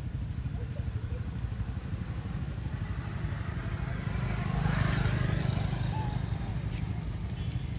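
Steady low engine rumble of passing road traffic, with one vehicle, likely a motorbike, growing louder past the middle and fading away.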